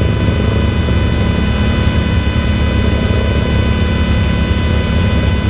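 Can-Am Maverick X3 side-by-side under way: a steady, loud low rumble of engine, drivetrain and terrain, picked up with a constant high electrical whine that never changes pitch.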